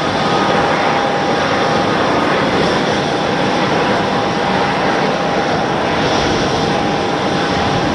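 Airliner engines running loudly and steadily, with a thin steady whine above the rush that is strongest in the first couple of seconds.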